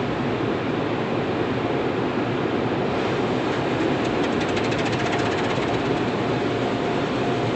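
Car wash machinery running: a steady rushing noise of water spray and equipment, with a brief run of rapid fine ticking about four seconds in.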